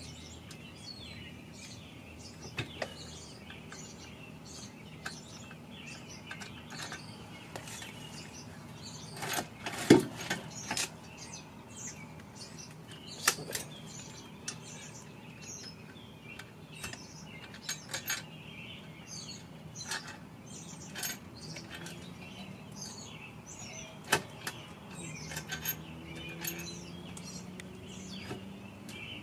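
Scattered metallic clinks and clicks of hand tools, bolts and parts being handled while an engine is stripped down. A sharp knock comes about ten seconds in, and there are louder clanks around thirteen and twenty-four seconds.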